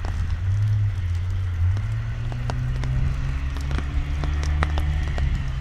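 Holden VX Commodore's engine running under load, its note climbing steadily as the car accelerates, then falling away near the end. Scattered sharp ticks of raindrops hitting the microphone sound over it.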